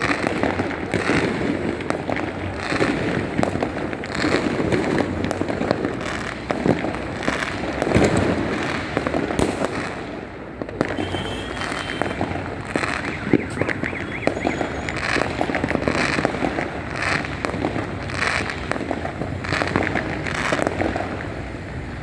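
Fireworks and firecrackers going off without a break: a dense stream of bangs and crackles, with the loudest bangs about eight and thirteen seconds in.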